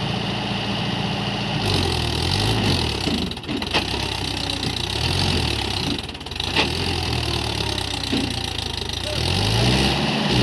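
Diesel tractor engine running, its pitch rising and falling repeatedly as it is revved, as when straining to pull through deep mud. The note steadies at first, then about two seconds in changes to repeated revving, with two short dips.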